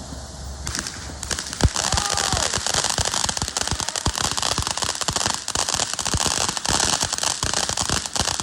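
Consumer firework going off with dense, rapid crackling that starts about a second in and keeps on, with one louder bang shortly after it starts and a brief whistle.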